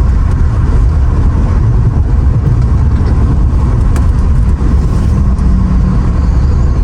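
Steady low rumble of road and engine noise inside the cabin of a Mercedes R129 SL500 cruising at highway speed.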